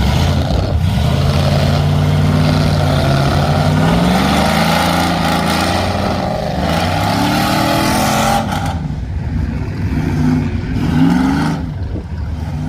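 Mud truck's engine revving hard, its pitch rising and falling, while the truck churns its way out of deep, soft mud. It eases off about eight and a half seconds in, then revs up once more briefly.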